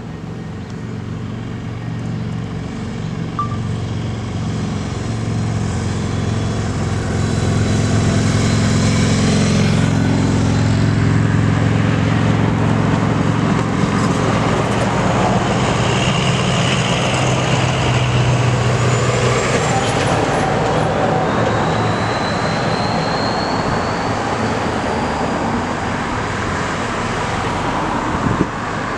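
Heavy diesel trucks driving past in a convoy, their deep engine drone growing louder over the first several seconds and then fading into steady road and tyre noise about two-thirds of the way through.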